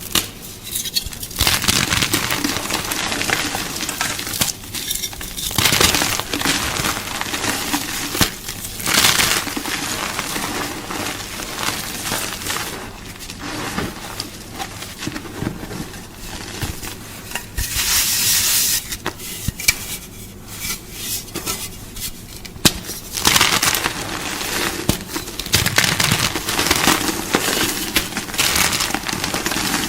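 Gym chalk (magnesium carbonate) being crunched, in dense crackling bursts of a few seconds with short quieter gaps between.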